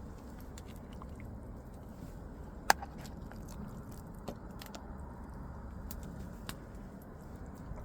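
Wood campfire crackling: a low steady hiss of burning with a few sharp, irregular pops, the loudest about three seconds in.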